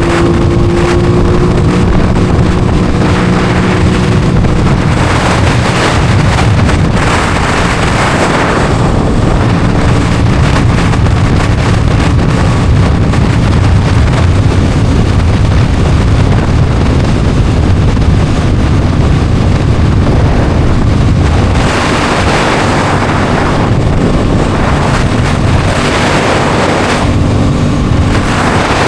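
Aprilia Tuono 660's parallel-twin engine running while the bike is ridden, with heavy wind rushing over the microphone.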